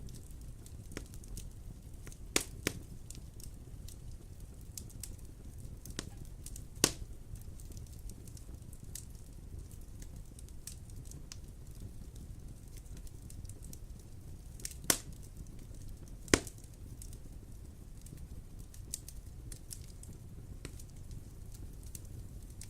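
Wood fire in a fireplace crackling, with a handful of sharp, loud pops scattered through it over a steady low rumble.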